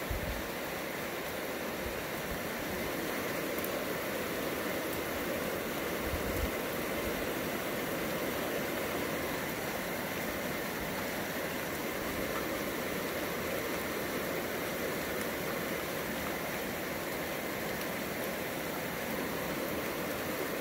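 Steady hiss of heavy rain falling during a night thunderstorm, even throughout, with brief low bumps near the start and again about six seconds in.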